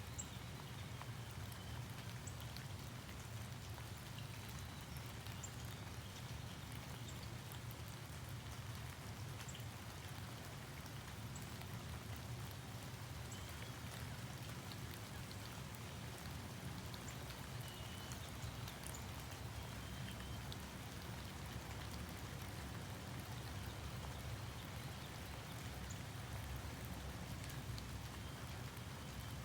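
Steady rain with scattered drops ticking.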